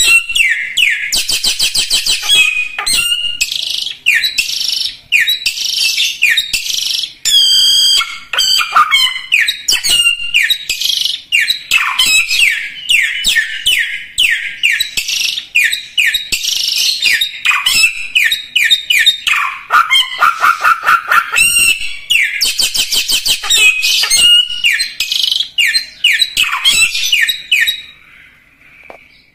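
Samyong songbird singing vigorously in a fast, continuous run of high chirps, trills and whistled notes, stopping near the end.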